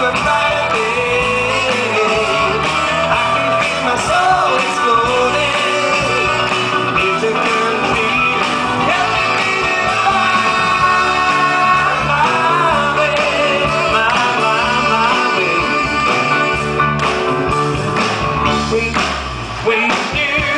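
Live band music with voices singing, a rock-and-roll style number from a stage musical.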